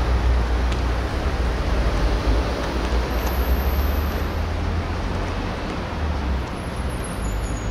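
Steady outdoor background noise with a deep, uneven rumble and no distinct events.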